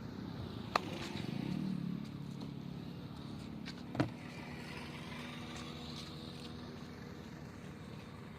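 A motor vehicle engine running steadily, a low hum that swells briefly about a second in, with two sharp knocks, one near the start and one about four seconds in.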